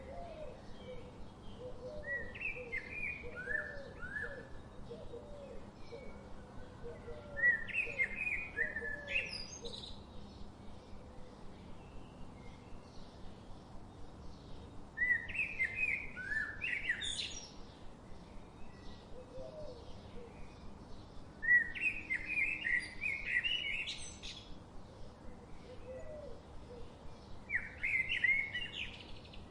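Songbirds singing outdoors: a bright, quick warbling phrase with rising whistles comes about every six seconds, each lasting about two seconds. Softer, lower chirps repeat rapidly in the first several seconds, over a faint steady background hiss.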